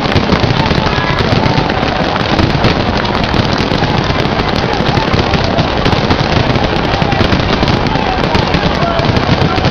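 Fireworks going off in a dense, continuous crackle of many rapid pops and bangs, steady in loudness throughout.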